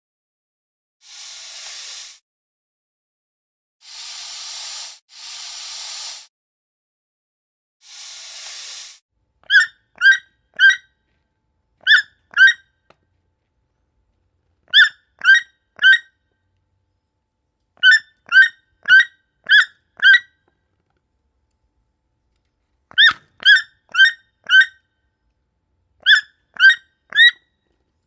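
An animal hissing in several separate breaths, each about a second long. Then a bird calls in short, sharp, repeated notes, in groups of two to five.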